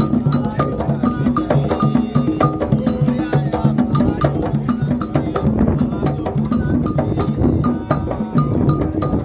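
Candomblé toque: atabaque hand drums playing a fast, steady rhythm, with a high struck iron bell (agogô) keeping time in short, sharp strokes.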